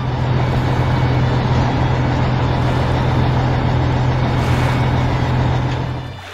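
A heavy vehicle's engine sound effect running steadily with a deep hum, dying away near the end.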